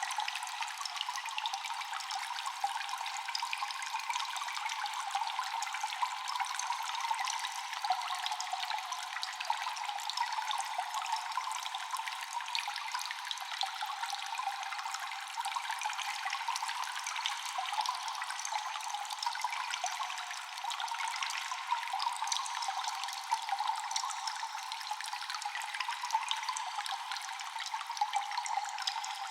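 Cave ambience of constant dripping and trickling water: many small drops falling at once in a dense, steady patter. The sound is thin, with no bass.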